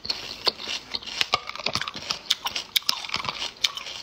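Close-miked chewing of small shellfish, with many crisp, irregular crunching clicks, several a second.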